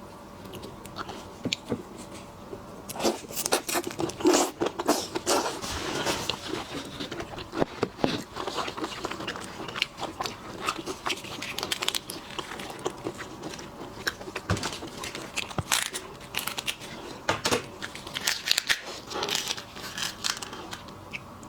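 Close-miked eating: shellfish shells crunching, cracking and tearing, with chewing, in a rapid irregular run of crackles and clicks that starts about three seconds in.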